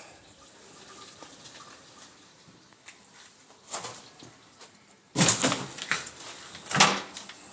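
Handling noise: a few faint clicks at first, then a burst of rustling and scraping about five seconds in and a shorter one near the end.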